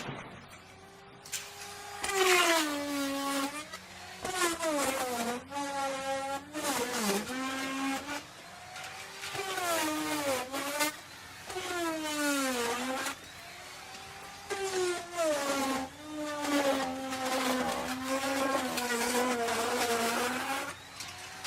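Electric wood router cutting wood. Its high motor whine drops in pitch each time the bit bites into the wood under load and climbs back as the load eases, over and over.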